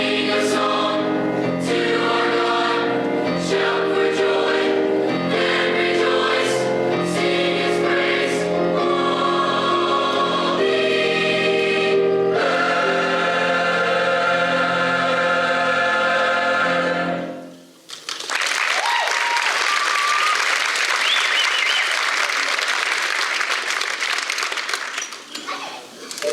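High school choir singing, closing on a long held chord about two thirds of the way through, then the audience applauding.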